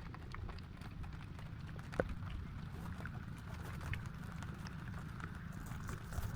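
Rain falling, with many scattered drops ticking on nearby surfaces over a steady low rumble.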